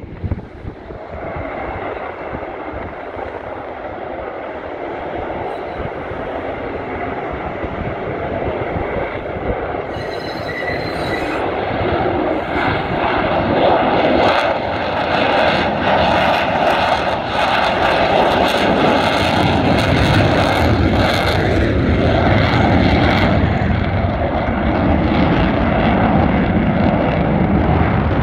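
Lockheed Martin F-35A Lightning II's Pratt & Whitney F135 turbofan at high power, a rough jet noise with a steady whine on top. It grows louder over the first dozen seconds, then holds loud, with crackling through the middle.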